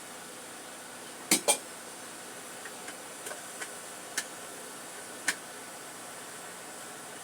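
Kitchen dishes and utensils being handled: two sharp knocks about a second in, then a few lighter clinks and one more knock, over a steady faint hiss.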